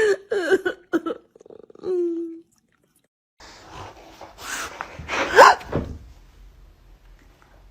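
A dog's short whines and yelps, ending in a brief held whine. Then, after a second's silence, breathy huffs and one sharp cry that rises and falls.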